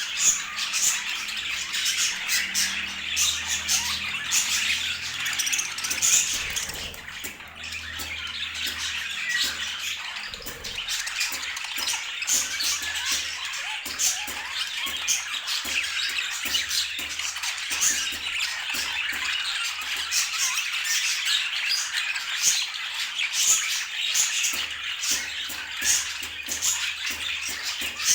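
Budgerigars chattering continuously, a dense mix of warbling chirps and rapid scratchy squawks.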